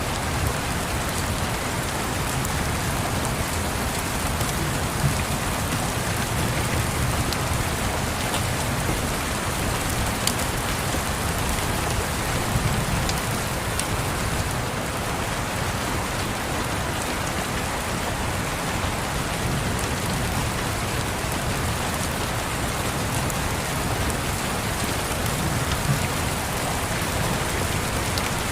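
Steady rain pattering, mixed with a fireplace giving a few sharp crackles now and then.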